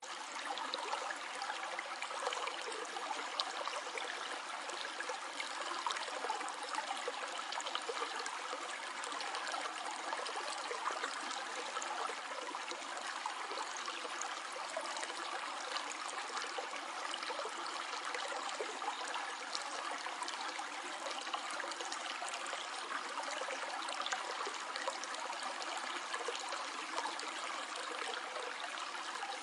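Shallow stream flowing and trickling steadily, a continuous babble of water with small splashes throughout.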